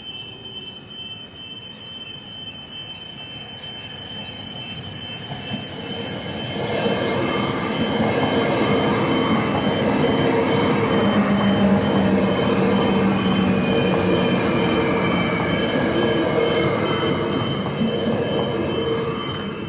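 A train approaching and passing close by. It grows louder from about four seconds in, is loud from about six and a half seconds with a steady hum and rail noise, and eases off near the end.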